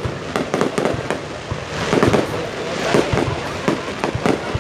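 Aerial fireworks bursting one after another in a dense volley: repeated deep booms mixed with sharp bangs and crackle, over a constant rumble of the crowd and echo.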